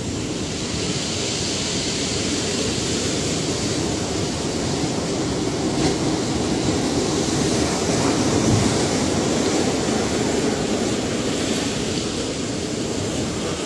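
Ocean waves breaking and washing on the shore in a steady roar of surf, swelling a little in the middle and easing off toward the end.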